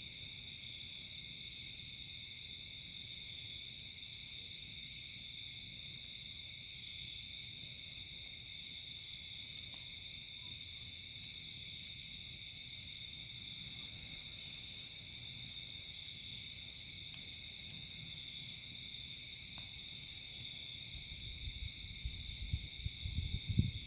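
Steady chorus of insects, crickets or katydids, trilling without pause. A higher buzzing insect call breaks in for a second or two about every five to six seconds. Low, uneven rumbles and bumps come in near the end.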